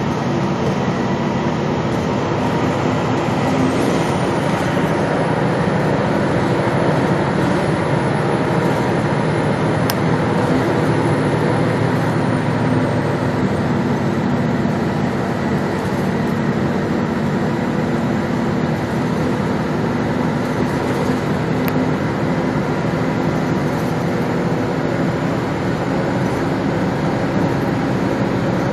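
Gillig Low Floor transit bus heard from inside while under way: a steady engine drone and road noise, with the heating and air-conditioning system switched off. From about four seconds in, a faint high whistle wavers up and down for roughly ten seconds.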